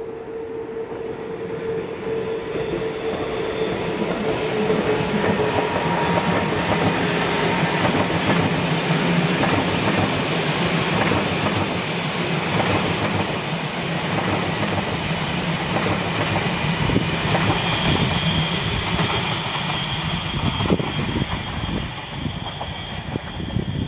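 Railjet passenger train in Czech Railways livery passing on a curve, its wheels rumbling and clattering over the rails. The sound builds over the first few seconds, stays loud through the middle with a thin, high steady squeal from the wheels on the curve, and eases off near the end as the train draws away.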